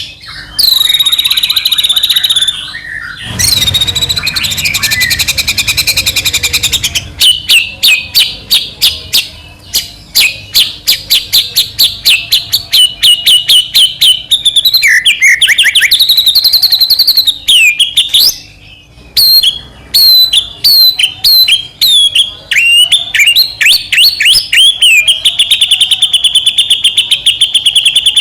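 White-rumped shama (murai batu) singing loudly and continuously: fast, varied phrases of whistles, sweeping notes and rapidly repeated chips, with brief breaks about three seconds in and again past the middle.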